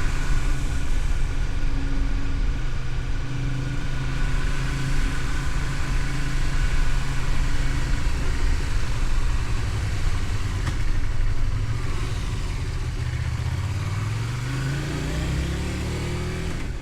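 Honda VTR250's V-twin engine running under way, with wind and road noise over it; in the last few seconds the engine note climbs steadily as the bike accelerates.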